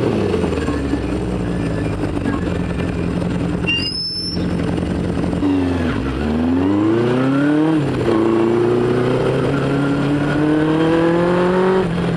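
A 1973 Honda CB500 Four's air-cooled inline-four engine, heard from the bike, runs low and steady in slow traffic, then revs up and accelerates away through the gears, shifting up about eight seconds in and again near the end. A brief high squeal comes about four seconds in.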